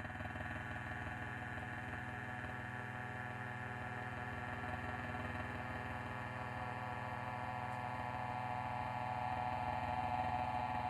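A steady hum of several held tones layered together, slowly growing louder.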